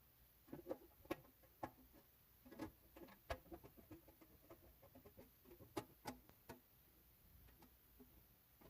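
Faint, irregular clicks and light taps over near silence, the kind made by small parts being handled.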